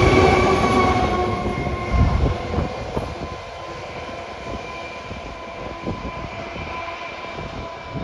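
A train passing and moving away. Its heavy rumble fades over the first three seconds, the wheels knock over rail joints a few times at spaced intervals, and a steady high whine lingers.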